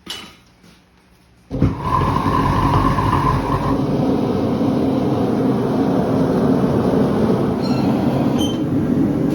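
A short knock, then about a second and a half in a horseshoer's forge comes up to full fire with a sudden, loud, steady rushing roar, heating the horseshoe.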